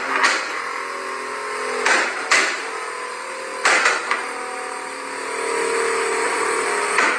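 Car engine and exhaust running at a held, slowly shifting note, broken by sharp exhaust pops and cracks in twos and threes about every two seconds.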